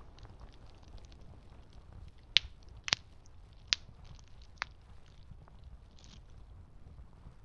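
Campfire burning with a low steady rumble and the wood crackling; four sharp pops stand out in the middle, with fainter snaps around them.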